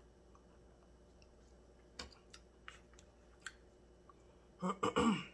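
Quiet, then a few faint, sharp clicks of chewing mouth sounds, followed near the end by a brief burst of a woman's voice.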